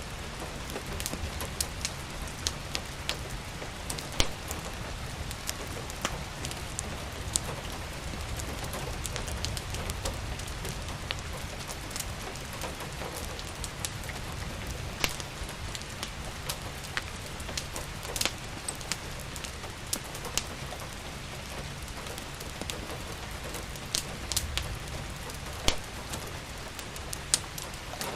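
Steady rain falling, with sharp, irregular crackles and pops from a wood fire in a fireplace scattered through it.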